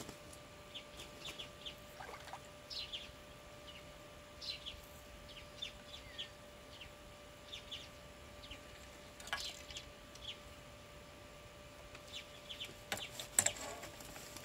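Birds chirping: many short, high, falling calls scattered throughout, over a faint steady hum, with a few sharp clicks about nine seconds in and again near the end.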